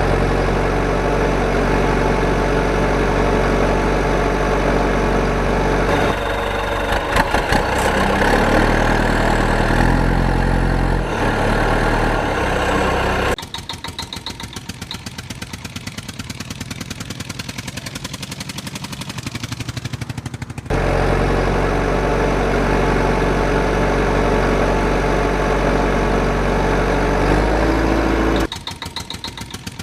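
Tractor engine running: a steady loud drone whose pitch steps up and down for several seconds, switching abruptly twice to a quieter, even put-put idle.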